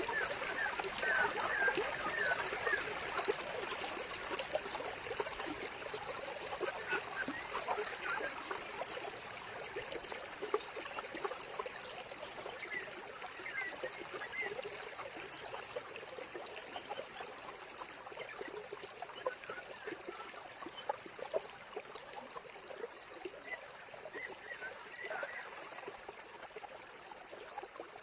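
Stream water trickling and splashing steadily, with a few short bird calls now and then; the sound slowly grows quieter.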